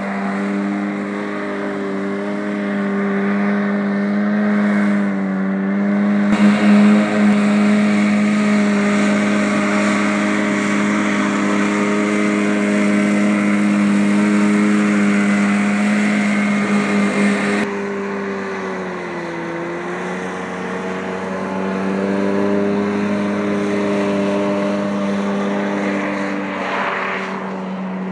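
Rotax 503 two-stroke twin-cylinder engine of a SCAT 1 hovercraft running steadily at a fairly even speed. It grows louder about six seconds in, drops back a little past the middle with a brief dip in pitch, then holds steady again.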